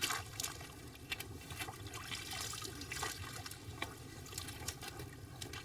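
Water trickling and splashing with many irregular small clicks and crackles, as of ice and slush being handled at an ice-fishing hole.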